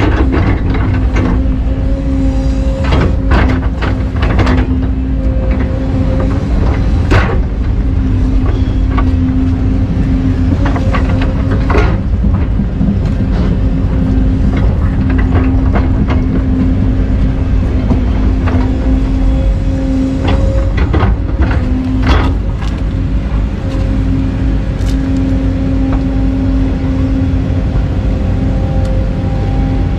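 Hydraulic excavator's diesel engine running steadily under load, with scattered sharp clanks and knocks from the working machine.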